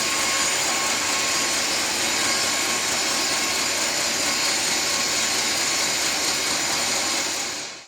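Sawmill machinery running steadily, a continuous mechanical whine with a high hiss, fading out and cutting off just at the end.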